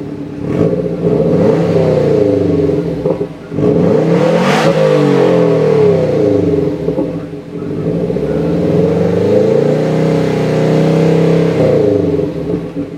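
Car engine revved through a Blitz Nur Spec R cat-back exhaust: several revs rising and falling in pitch, the highest about four and a half seconds in, then a slower climb and drop in the second half.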